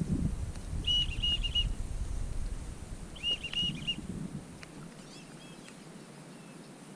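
Whistling ducks calling: two runs of several short, high whistled notes, about a second and a second and a half in. Under them is a low rumble that dies away about two-thirds of the way through.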